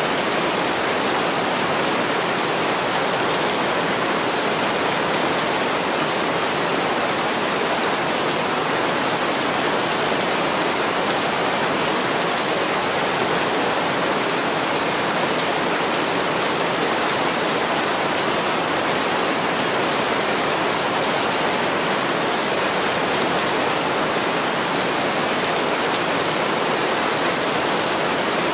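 Heavy rain pouring steadily onto window glass, a dense, even hiss that does not change.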